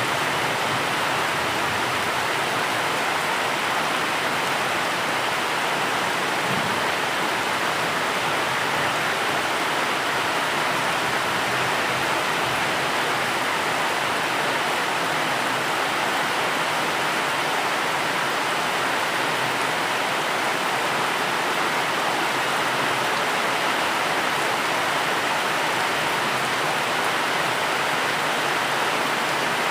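Steady rain, an even unbroken hiss of falling water with no thunder or single drops standing out.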